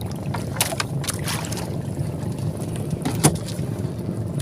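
Sounds aboard a small fishing boat at sea: a steady low rumble with water splashing and a few sharp knocks, the loudest about three seconds in.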